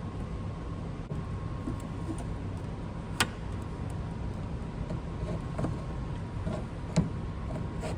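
A wrench working the 10 mm nut on a car battery's negative terminal clamp: two sharp metallic clicks about four seconds apart, with a few fainter taps, over a steady low rumble.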